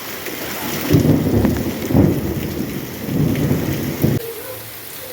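Heavy rain falling, with a loud low rumble of thunder from about a second in that surges and fades over about three seconds.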